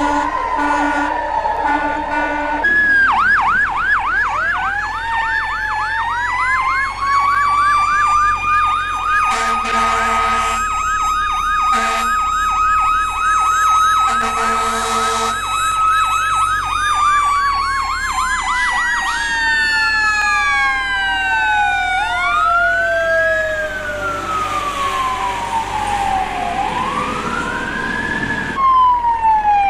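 Electronic emergency-vehicle siren sounds: a short two-tone at first, then a fast warbling yelp, broken twice by short horn blasts, giving way to slow falling and rising wails near the end.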